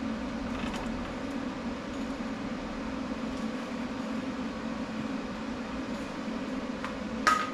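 A machine running with a steady hum, and a single short metallic clink near the end.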